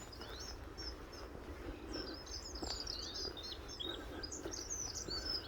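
Small birds chirping and twittering: many short, high calls and little sweeping notes overlapping, busiest from about two seconds in, over a low steady rumble.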